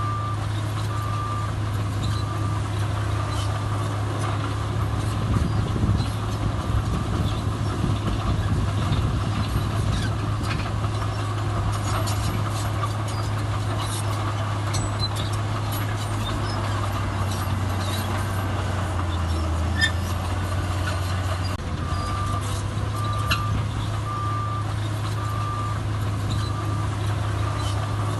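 Heavy diesel earthmoving machinery running steadily, with its engine note dipping briefly about two-thirds through. A reversing alarm beeps at the start and again for the last several seconds.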